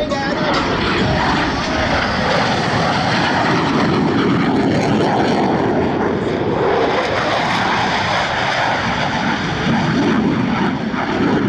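Jet noise from Blue Angels F/A-18 Super Hornets, a steady, loud rush with no breaks.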